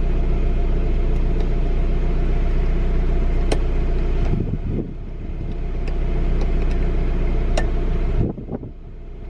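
Fiat 500's small four-cylinder engine idling with a steady low hum, heard from inside the cabin, with two sharp clicks. The hum dips briefly about four and a half seconds in and drops away sharply about eight seconds in.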